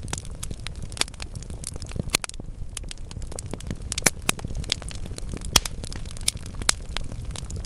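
Wood fire in a fireplace, burning logs crackling with irregular sharp pops over a steady low rumble of the flames. The loudest pops come about four, five and a half and nearly seven seconds in.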